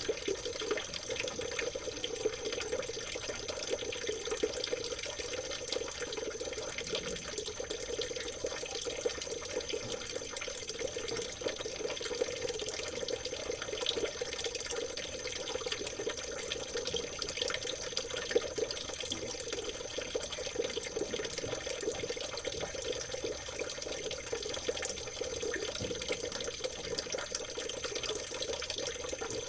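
Water trickling and babbling over stones in a stream, a steady, unbroken splashing full of fine gurgles.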